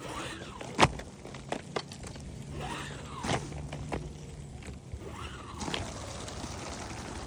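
Footsteps and scuffs with a few sharp knocks, the loudest about a second in, over a faint steady hum.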